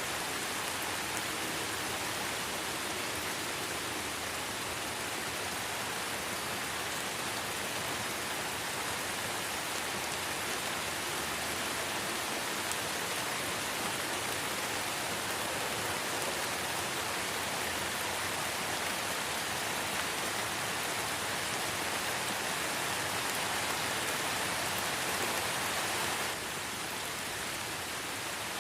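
Steady light rain falling in a forest, an even patter of drops on leaves and ground. The sound dips slightly all at once near the end.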